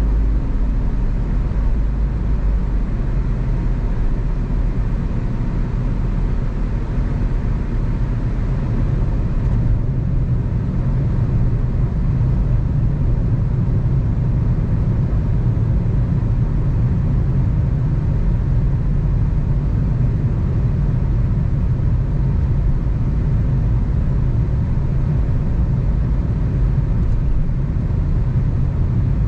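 Car driving along at a steady pace: a continuous low rumble of engine and tyre noise on the road.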